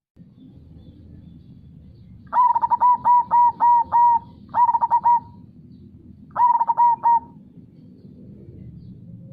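Zebra dove (perkutut) cooing: a long run of quick repeated coos starting about two seconds in, then two shorter runs, over the steady low rush of flowing river water.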